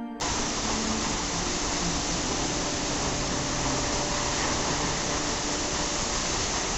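Steady rush of a waterfall, cutting in sharply just after the start, with soft background music faintly underneath.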